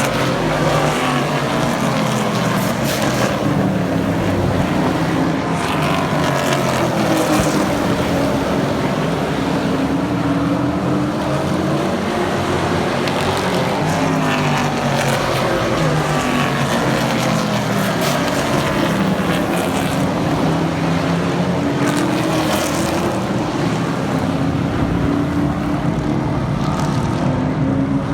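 Super truck race engines running at race pace, their pitch rising and falling in waves every few seconds as the trucks accelerate and lift around the track.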